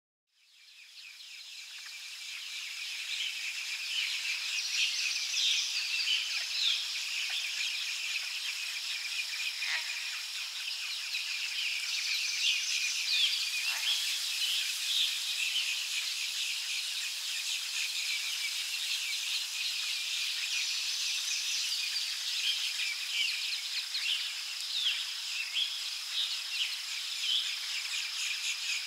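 Wild birds chirping and calling over a steady, high insect drone. The sound fades in over the first few seconds, and a similar call comes back about every eight seconds.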